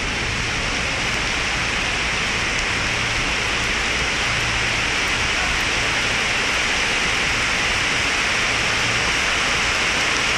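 Steady hiss of heavy rain falling on a station platform and roof, with a faint low hum underneath.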